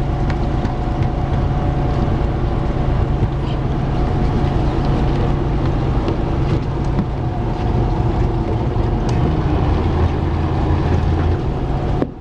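Fishing boat's engine running steadily, a low continuous hum with a faint higher tone above it.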